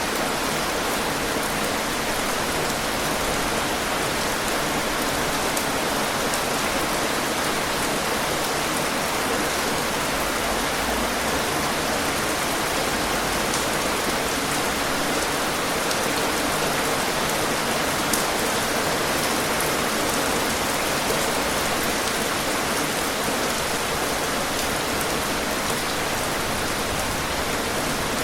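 Steady rain falling, an even hiss of many drops with a few individual drop ticks standing out.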